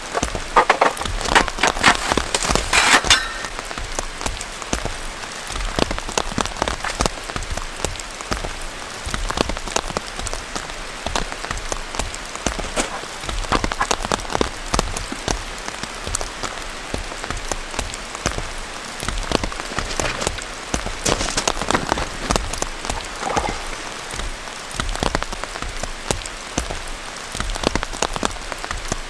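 Heavy rain falling, with a dense, steady run of individual drops striking a surface. A louder cluster of crackling clicks sounds over the first three seconds or so.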